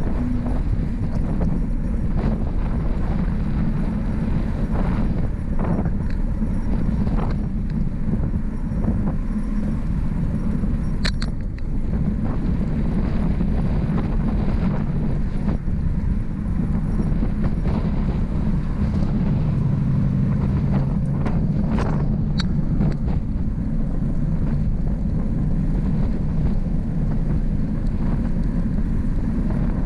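Steady low rumble of a bicycle ride on a paved road, with wind on the microphone and tyre noise, and a few short clicks or rattles.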